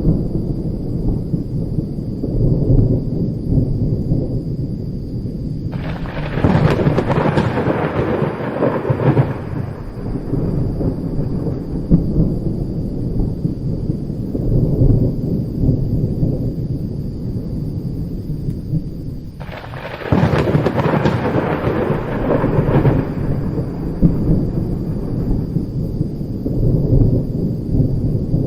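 Thunder rumbling continuously, with two sudden, sharp thunderclaps, one about six seconds in and one about twenty seconds in, each rolling away over a few seconds.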